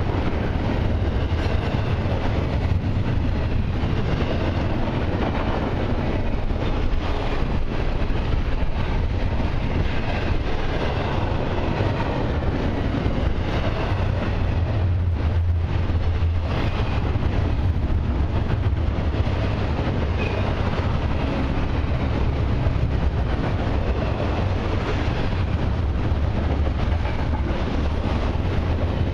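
Double-stack intermodal well cars of a freight train rolling past: a steady, loud rumble and rattle of steel wheels on rail.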